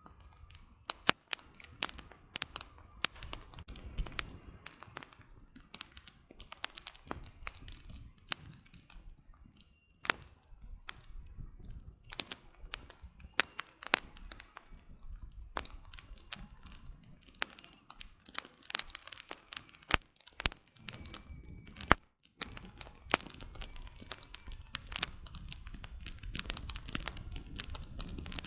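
Wood campfire burning, the firewood crackling and popping in dense, irregular snaps over a low rumble of flame.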